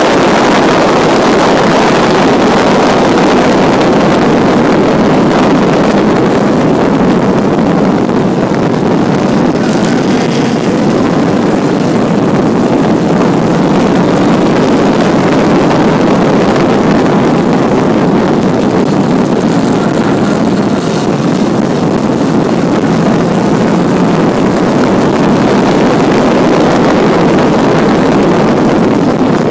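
1952 Jaguar XK120's 3.4-litre twin-cam straight-six running hard at race pace. It slows from about 100 mph to under 50 for a corner, then accelerates out again.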